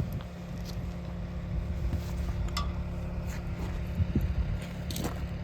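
A steady low engine hum, with a few short sharp clicks over it.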